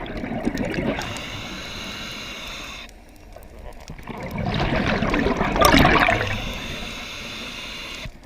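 Water rushing and splashing in two swells, the second and louder one about five to six seconds in.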